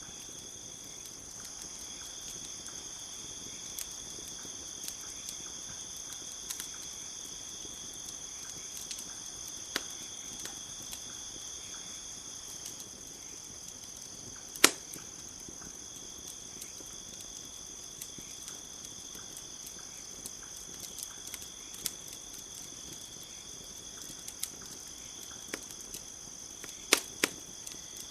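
Campfire crackling with scattered sharp pops, the loudest about halfway through and two more close together near the end, over a steady high chirring of crickets.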